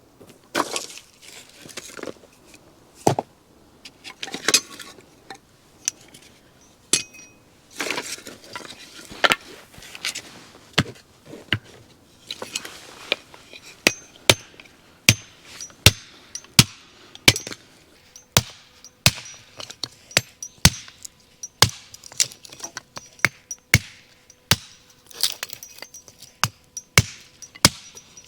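Irregular sharp knocks and clinks of hard objects being handled and set down, coming closer together in the second half, with short scrapes between them.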